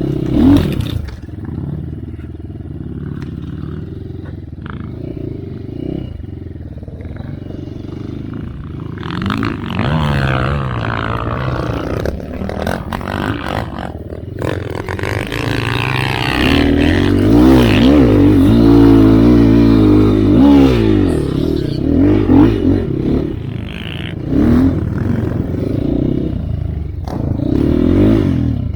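Dirt bike engine revving up and dropping back again and again while riding in slick mud, with clattering knocks from the bike. The bike barely answers the throttle: the rear wheel is losing grip in the mud.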